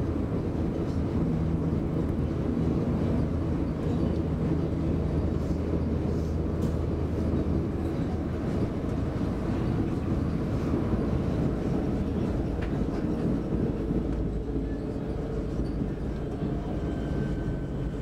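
Cabin ride noise of an X60 (Alstom Coradia Nordic) electric commuter train running at speed: a steady low rumble of wheels on rail with a steady low hum. A faint higher whine comes in near the end.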